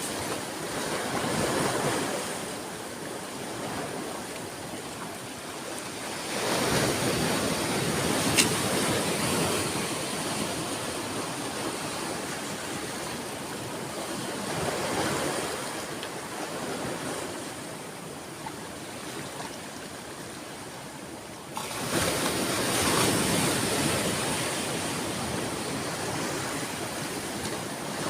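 Sea waves breaking and washing onto the shore in slow swells of surf, one surge after another, with a sudden rise in loudness about three quarters of the way through.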